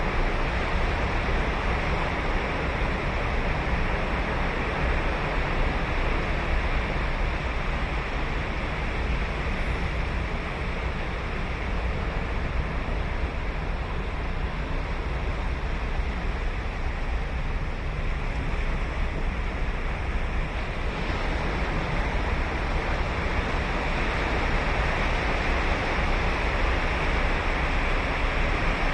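Ocean surf breaking and washing on a sandy beach, a steady rush that eases a little midway and builds again near the end, with a low rumble of wind on the microphone.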